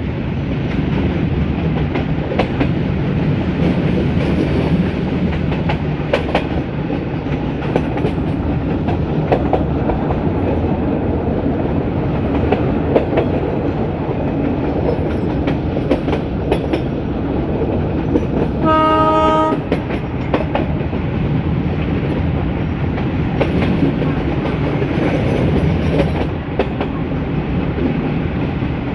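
Metre-gauge train running steadily, wheels clicking over the rail joints under the low drone of the YDM4 diesel locomotive. About two-thirds of the way through, the locomotive's horn sounds once, briefly.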